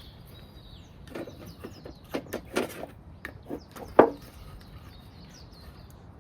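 Wild birds singing with thin high whistles, while a run of rustles and knocks comes through about a second in, ending in one sharp knock about four seconds in, the loudest sound.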